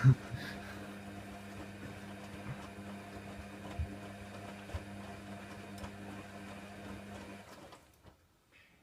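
Hoover Nextra HNWL7146 washer dryer's drum motor running with a steady hum and a few soft knocks as the drum tumbles the bedding load in the wash, then the motor stops near the end as the drum pauses between turns.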